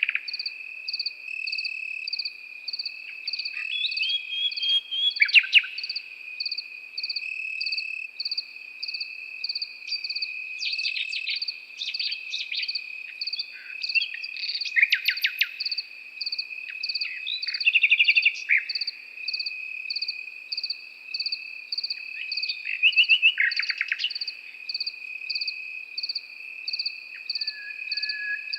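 A nightingale singing in short separate phrases of rapid repeated notes every few seconds, over crickets: one steady high trill and a high chirp pulsing about twice a second.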